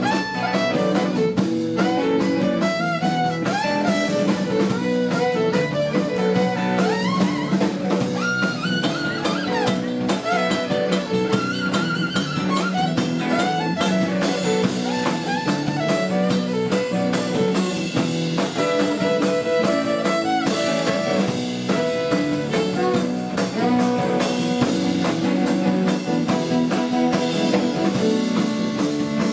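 Instrumental break of a live blues trio: guitar, violin and drum kit playing together, with gliding melody notes over a steady beat and no singing.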